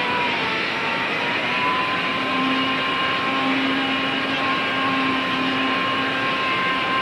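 Electric hand plane running and cutting, taking surplus wood off a wooden canoe stem. Its steady motor whine sags briefly in pitch as the blades bite.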